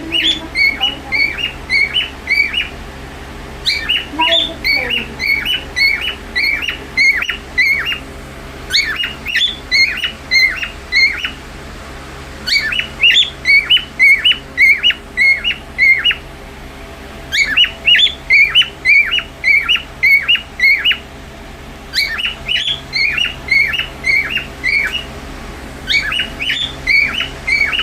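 A small pet parrot giving short, sharp chirping calls, about three a second, in runs of a few seconds with brief pauses between.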